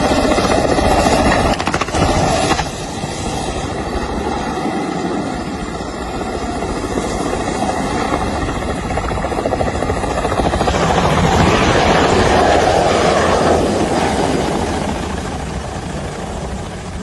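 Ka-226 coaxial-rotor helicopter in flight: a rapid rotor chop with a steady high whine over it for the first ten seconds or so. The chop grows louder about eleven seconds in, then fades.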